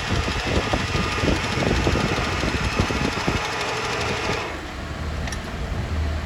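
Metalworking machinery running with a rapid, dense clatter. About four and a half seconds in, the high hiss drops away and a low steady hum remains.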